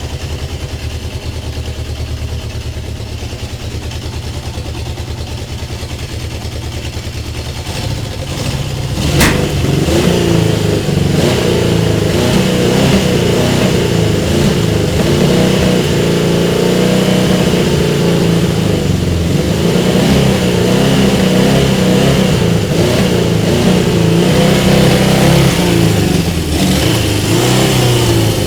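Honda CB750K2's air-cooled inline-four engine idling steadily, then from about eight seconds in revved up and held at a higher, wavering speed. A sharp click sounds near nine seconds.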